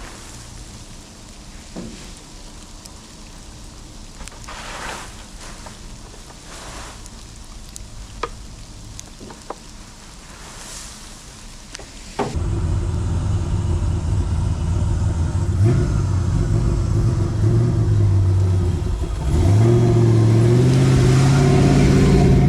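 A low, rain-like hiss with a few sharp clicks, then about twelve seconds in a truck's 6.0-litre LS-swapped V8 starts abruptly and runs steadily. A few seconds before the end it revs up, its pitch rising.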